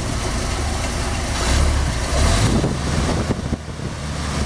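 Chrysler slant-six engine idling, just started after sitting over the winter with gas poured down the carburetor.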